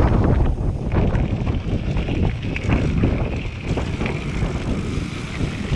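Wind buffeting the microphone of a camera riding along on a mountain bike: a loud, steady low rumble that rises and falls with the gusts.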